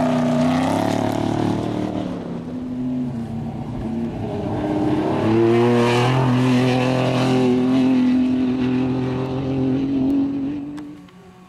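Off-road race vehicle's engine running hard as it passes, climbing in revs about five seconds in and holding high revs, then fading away near the end.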